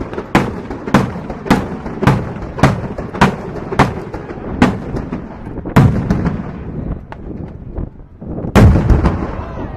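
Fireworks shells bursting in a rapid string of sharp bangs, about two a second, then thinning out, with one loud, deep boom near the end.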